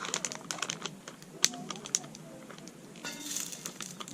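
Wood campfire crackling, with irregular sharp pops and a brief hiss about three seconds in.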